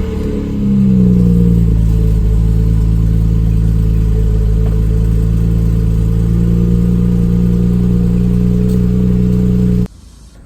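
BMW 335i's N54 twin-turbo inline-six just after starting, its revs easing down from the start-up flare into a steady idle. The sound cuts off sharply near the end.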